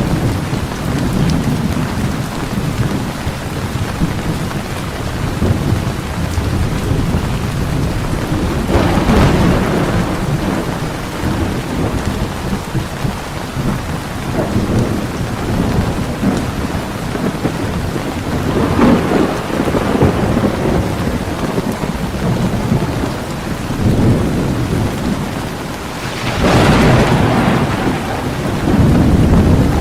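Heavy rain pouring steadily under a thunderstorm, with rolling thunder rumbling low beneath it and swelling into louder rolls several times, strongest near the end.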